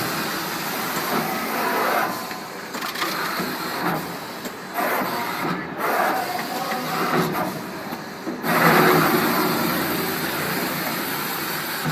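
Full-servo eight-colour pad (tampo) printing machine running through its print cycles, its mechanical noise rising and falling in surges every couple of seconds.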